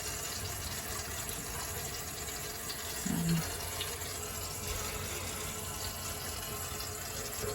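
Water running steadily from a faucet into a sink drain.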